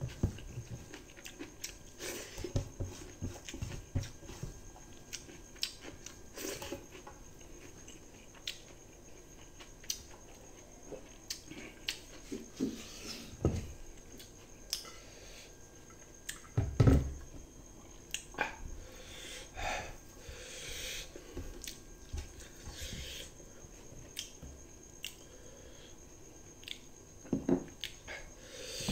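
Close-up chewing and lip-smacking of rice, dal and fried egg eaten by hand, with fingers squishing food against a plate in scattered short clicks. A louder knock about two-thirds of the way through.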